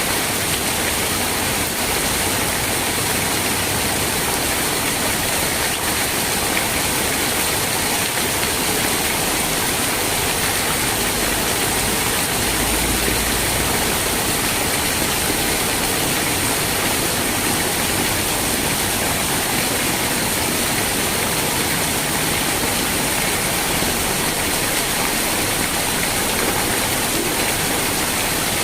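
Steady rain falling, an even hiss without breaks or separate drops standing out.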